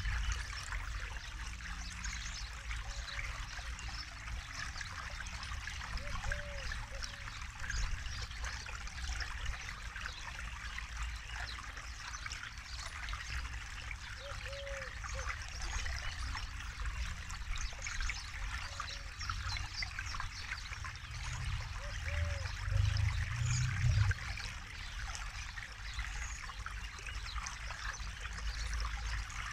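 Forest river flowing steadily over stones with a trickling, splashing rush, and a short low call, most likely a bird's, repeating every several seconds. A low rumble swells briefly about two-thirds of the way through.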